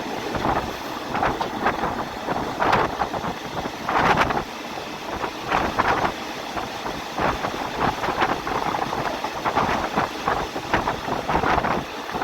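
Passenger train in motion, heard from inside a carriage: steady running noise and wind, with irregular rattles and clatters.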